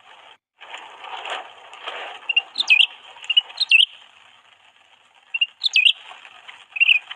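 A small songbird chirping: sharp high chirps in short clusters, about three bursts. A rustling noise comes in the first couple of seconds.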